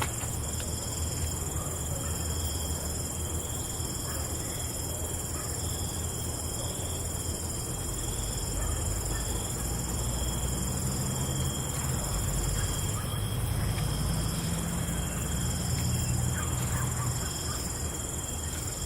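Night chorus of crickets, a steady high-pitched chirring at several pitches at once, over a low rumble that swells a little in the middle.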